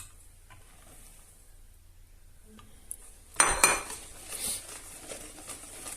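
A metal utensil clatters loudly against a mixing bowl about three seconds in, after a quiet start, then keeps clinking and scraping as the semolina basbousa batter is stirred.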